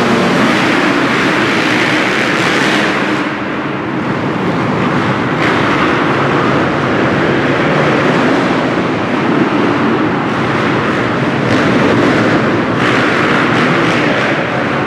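Motocross bike engines racing around a track, a pack of dirt bikes running together in a steady, loud din that dips and swells several times as riders back off and open the throttle.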